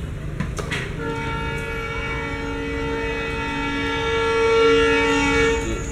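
Train horn sounding one long steady blast of several tones together, starting about a second in, getting louder near the end and then cutting off.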